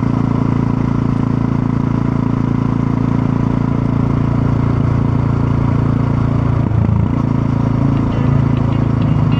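Supermoto motorcycle engine running steadily while riding, with a brief break in the engine note about seven seconds in, after which it settles at a slightly different pitch.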